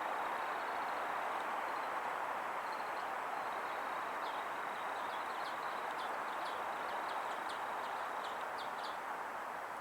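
Oriental greenfinches giving a run of short, high twittering chirps, thickest in the middle and later part, over a steady rushing background noise.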